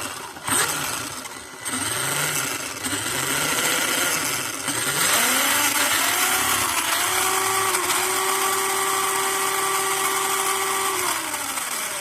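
UDIRC 4x4 RC truck's electric motor and drivetrain running under throttle: several short blips that rise and fall in pitch, then a steady whine held for a few seconds before winding down near the end. With the new drive axle fitted, the grinding from the old, slightly bent axle is no longer as dominant.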